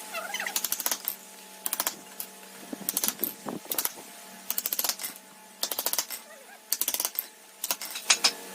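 Bursts of rapid, sharp tapping clicks, several in quick succession, repeating about once a second.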